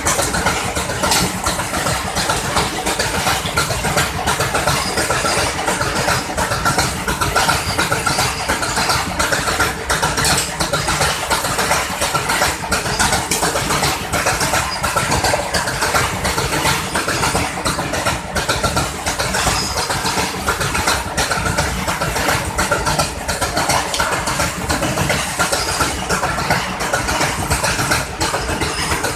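Diesel locomotive running steadily with train noise, holding an even level throughout with no horn or clear breaks.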